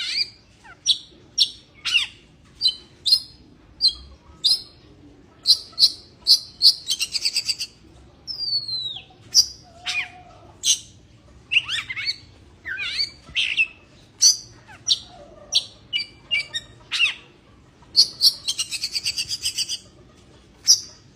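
Oriental magpie-robin (kacer) in breeding condition singing: loud, sharp, high whistled notes about two a second. The notes are broken twice by rapid rattling trills, and by one downward-slurred whistle.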